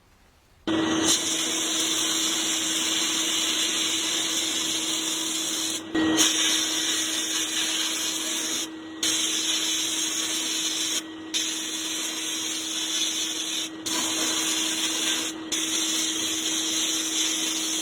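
A power tool starts suddenly under a second in and runs steadily with a strong hiss and a steady hum, broken by several brief gaps.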